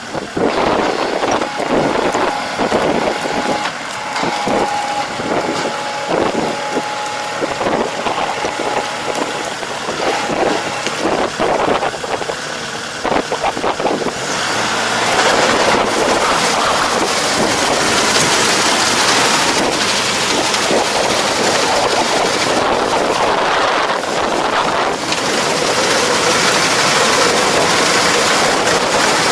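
Farm machinery running, with wind on the microphone. Partway through, the noise grows louder and becomes a steady, even hiss.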